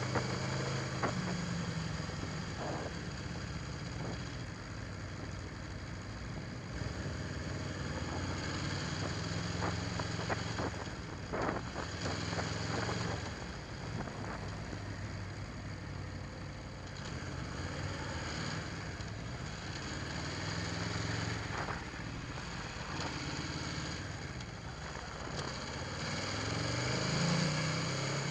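Aprilia Tuono V4 1100 Factory's V4 engine running at low revs, fairly steady with small rises and falls in pitch and a brief rise near the end. A few short clicks around the middle.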